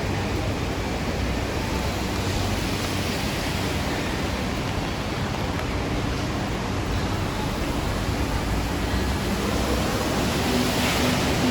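Steady hiss of falling rain, with a low rumble of city traffic underneath.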